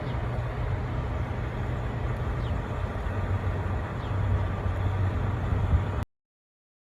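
Steady low rumble of road vehicles running nearby, cutting off suddenly about six seconds in.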